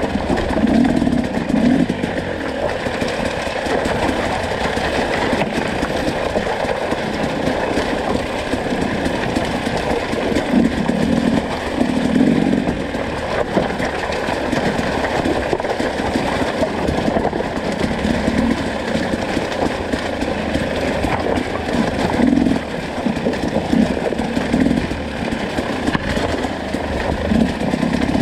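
Enduro dirt bike engine running continuously, its sound swelling in short, irregular bursts as the throttle is worked.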